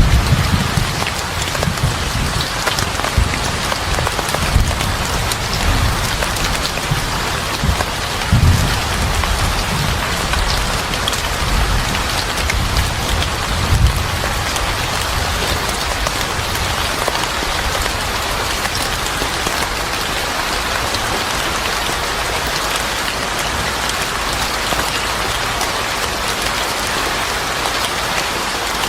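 Steady heavy rain falling on a surface, an even hiss, with irregular low rumbles in the first half that fade out about halfway through.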